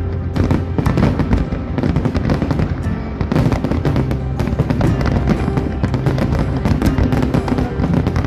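Aerial fireworks display: many bursts and crackles in quick succession, over the show's loud accompanying music.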